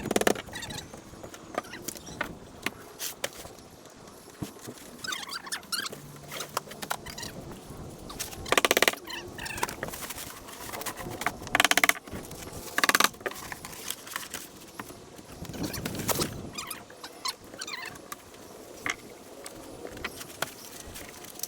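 Construction work on a wooden shed: scattered knocks and clicks with a few short bursts of a power tool, two of them close together in the middle. Birds call faintly in between.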